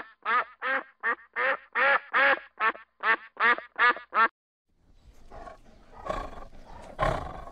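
White domestic ducks quacking, about a dozen short quacks at roughly three a second, which stop a little after four seconds in. After a short gap, a tiger growls roughly, with two louder growls near the end.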